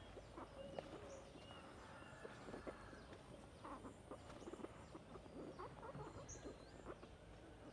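Faint outdoor ambience: a few short, high bird chirps, several in the first second or so and another about six seconds in, over soft rustling and small clicks.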